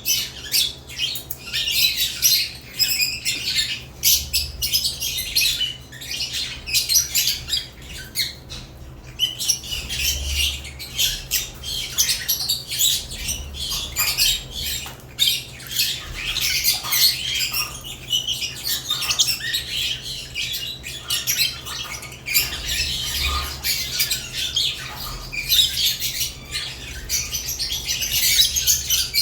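Several caged lovebirds chirping and squawking nonstop, many short, shrill calls overlapping one another.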